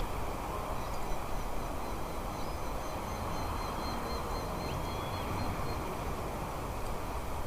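Faint, thin, high bird chirps in a quick repeating series over a steady outdoor background rush.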